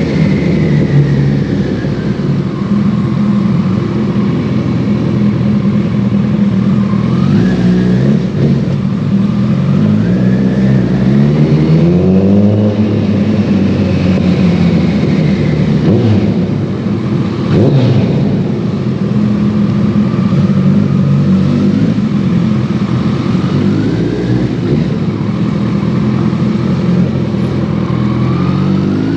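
2014 Kawasaki ZX-14R's inline-four under way through a full Brocks Alien Head 2 exhaust, the revs rising and falling with throttle and gear changes. A brief sharp crack near the middle.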